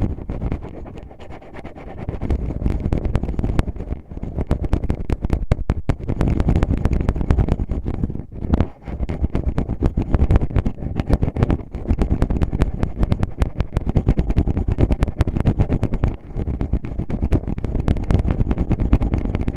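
Fingertips rubbing, scratching and tapping right on a microphone, as in finger ear-cleaning ASMR: a dense crackle of rapid scratches over a low rumble, with brief pauses about 4, 8 and 16 seconds in.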